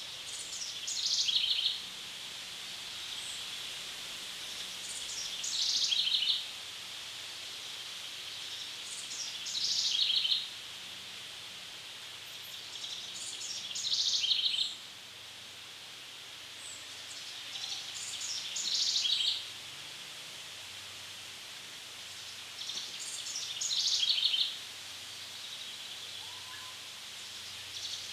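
A songbird singing the same short phrase over and over, about once every four to five seconds. Each phrase lasts about a second and a half, starts high, steps down in pitch and ends in a fast trill. A steady high hiss runs underneath.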